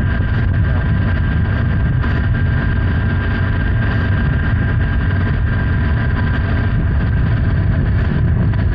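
Honda Hornet 900 (CB900F) inline-four motorcycle engine running steadily while the bike is ridden, heard over heavy low rumble from wind and road.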